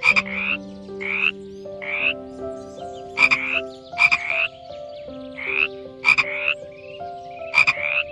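Frog croaking repeatedly: short, rising calls, some with a sharp click at the start, coming one after another less than a second apart.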